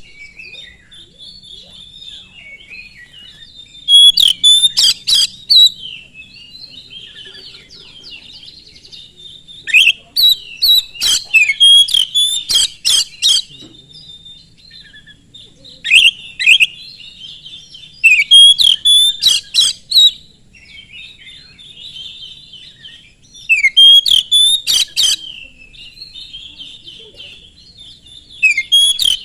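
Oriental magpie-robin (kacer) singing: five loud bursts of rapid, sharp notes a few seconds apart, with softer continuous twittering in between.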